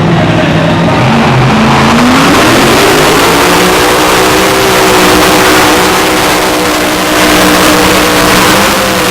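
Mini Unlimited pulling tractor's engine, very loud, climbing in revs about two seconds in and then held at high revs, swelling louder a couple of times.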